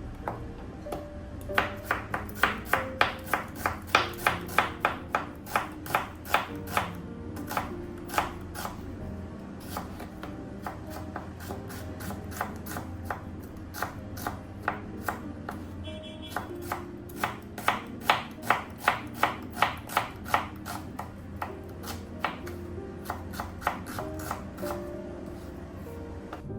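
Knife chopping on a cutting board in an even rhythm of about three strokes a second: one run of about seven seconds, a pause with lighter cuts, then a second run of about five seconds. Soft background music plays underneath.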